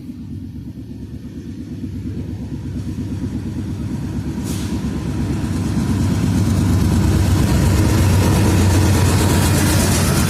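Diesel freight locomotive approaching and growing steadily louder, its engine a deep, even rumble, with a brief hiss about four and a half seconds in.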